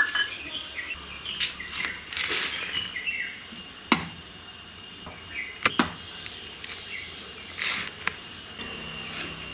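Small birds chirping in short calls against a steady high insect drone, with a few sharp clicks about four and six seconds in.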